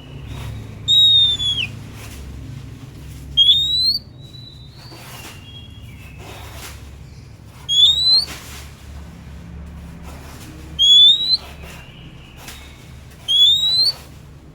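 Oriental magpie-robin (kacer) singing loud clear whistled notes, five in all and a few seconds apart. The first slides downward and the rest sweep upward, with fainter short whistles between them.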